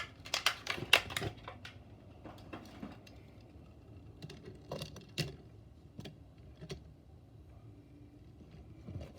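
Scattered clicks and taps from handling a diecast model pickup truck, several in quick succession in the first second and a half, then only a few isolated ones.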